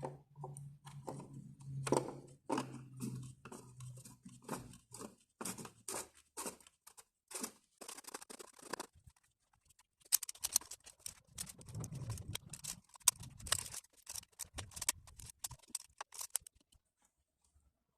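Irregular clicks and knocks of parts and tools being handled as a new oil filter cartridge is fitted into the M111 engine's filter housing and its cap screwed down, with a fast run of clicks in the second half. A low steady hum runs under the first few seconds and stops.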